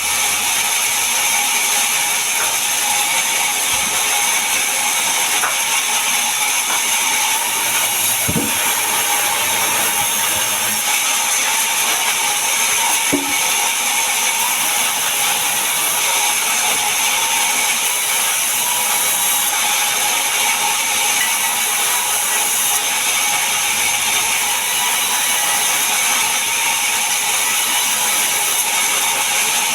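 Power saw cutting mahogany wood: a loud, steady high-pitched hiss with a few held whining tones, broken by a brief knock about eight seconds in and another about thirteen seconds in.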